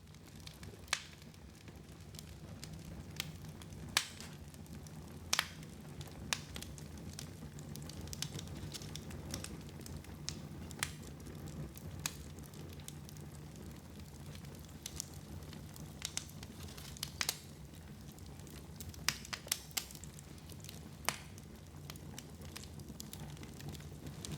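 Wood fire burning in a fireplace: a steady low rumble and hiss with sharp crackles and pops at irregular intervals, roughly one a second.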